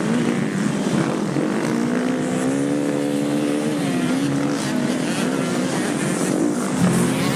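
KTM 250cc four-stroke Six Days enduro motorcycle engine under way, its note rising and falling with the throttle. It climbs about two seconds in, drops back near four seconds, and picks up again near the end.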